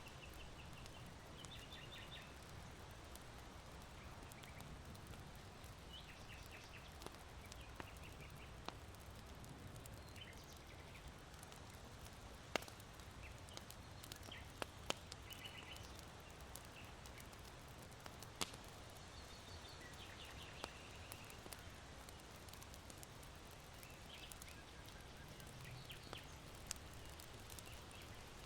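Faint charcoal fire in an irori hearth giving sparse sharp pops. Under it, small birds chirp in short trills far off, over a low wind rumble.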